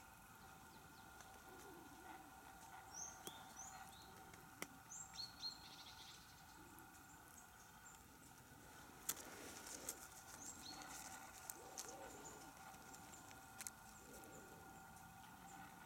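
Faint, short, high-pitched bird chirps in a few clusters over quiet woodland, with a few light clicks and a faint steady hum.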